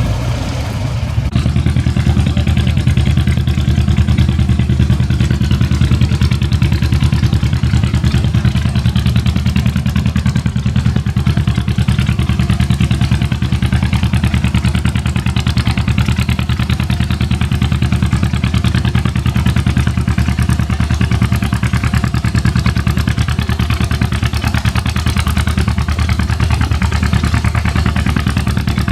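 Antique farm tractor engine running loud at a steady speed for the whole stretch, its exhaust pulsing rapidly and evenly; it gets louder about a second in and then holds steady.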